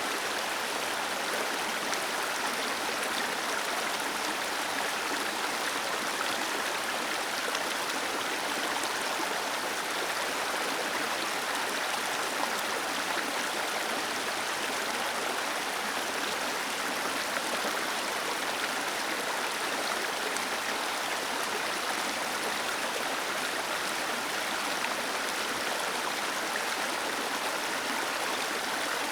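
Small waterfall cascading under a stone bridge: a steady, even rush of falling water.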